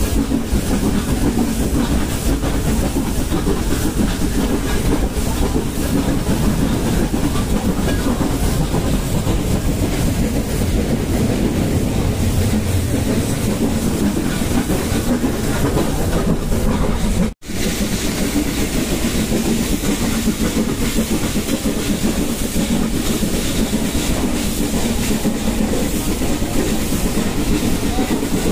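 Nilgiri Mountain Railway metre-gauge train running, heard from an open coach doorway: a steady, loud running noise of the coaches on the track with air rushing past. The sound cuts out for an instant about two-thirds of the way through.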